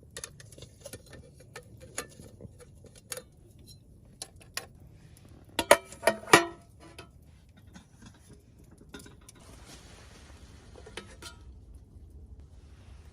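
Metal camp cookware clinking and clattering as it is handled: scattered light clicks, then a quick run of louder ringing clanks about halfway through.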